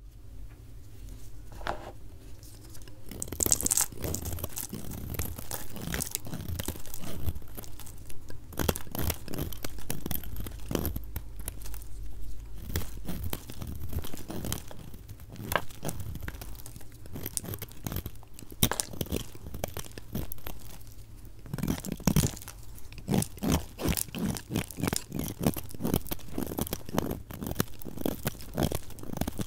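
Blade cutting into a bar of dry soap, played at double speed: a run of crisp crunching, scraping strokes. The strokes come quicker and closer together in the last third.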